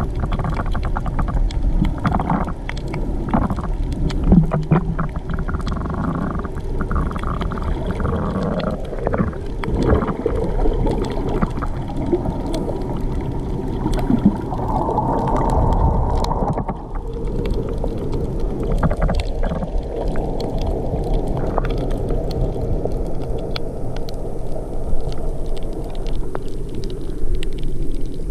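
Muffled underwater noise from a camera held below the sea surface: a steady low rumble and gurgling, broken by scattered clicks.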